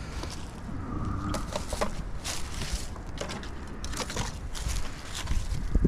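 Footsteps and rustling through roadside brush, with scattered short crunches and knocks from litter being handled.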